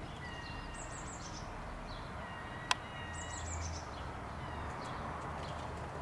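Small birds chirping outdoors: quick runs of very high, falling chirps about a second in and again past three seconds, with thin, high whistles between them. A single sharp click comes near the middle.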